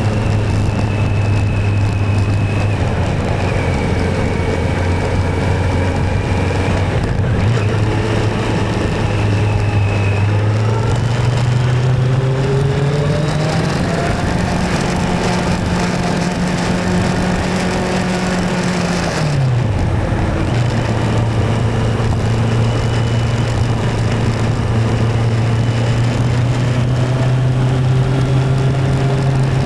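Motorcycle engine running on the road with wind rushing over the microphone. The engine note climbs steadily from about ten seconds in, holds high, drops abruptly just before twenty seconds, then settles into a steady cruise.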